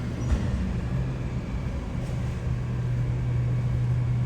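Steady low mechanical hum holding one pitch, over a haze of city street noise.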